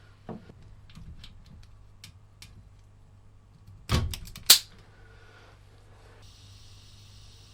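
Hand tools and small metal parts being handled on a workbench: light clicks and taps, a louder clatter about four seconds in followed by a sharp knock. A steady high hiss starts near the end.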